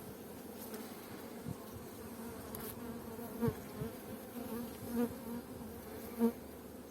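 Honeybees buzzing over an open hive, a steady hum with individual bees flying close and swelling louder several times.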